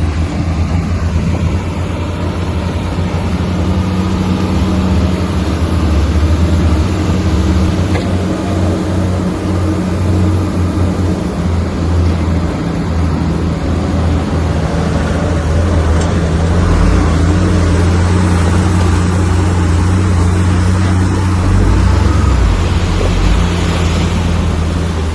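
Komatsu bulldozer's diesel engine running steadily at working revs, swelling a little in loudness now and then.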